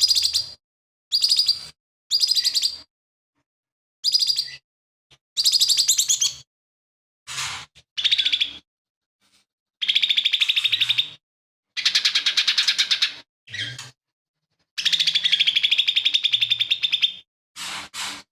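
Cucak ijo mini leafbird singing a loud, choppy song: about a dozen bursts of very rapid, high trilling and chattering notes, each broken off by a short silence. The song is filled with mimicked calls of other birds.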